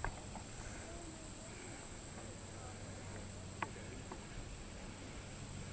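Insects keep up a steady, unbroken high-pitched chorus. A single faint click comes about three and a half seconds in.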